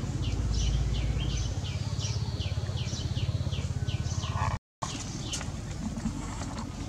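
A bird calling over and over with short falling chirps, about two a second, over a low rumble. The sound drops out completely for a moment about two-thirds through, and afterwards there are only scattered faint chirps and clicks.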